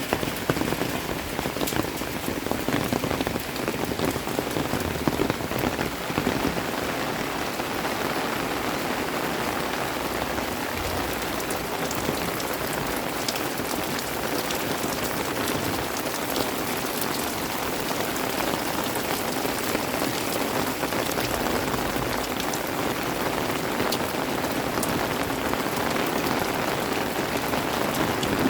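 Steady rain falling: a dense, even hiss with many separate drops ticking through it.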